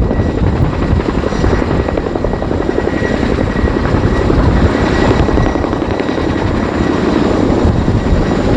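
RAF Boeing Chinook HC.6 tandem-rotor helicopter in display flight: loud, steady, rapid blade slap from its rotors, with a thin high turbine whine over it.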